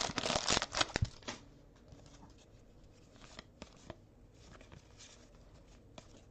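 Football trading cards being handled and slid against one another, a quick run of rustling and clicking in the first second or so, then only a few faint clicks.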